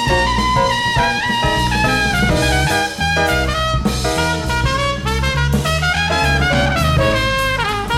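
A small jazz group playing live, with a horn carrying the melody over bass and drums.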